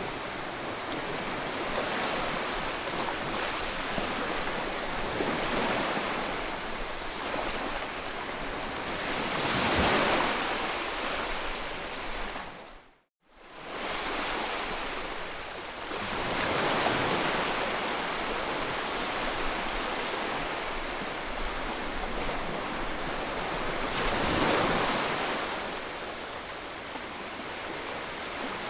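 Ocean waves washing on the shore, a steady rush of surf that swells louder twice, about ten seconds in and again near the end. A little before halfway the sound drops out briefly to silence and comes back.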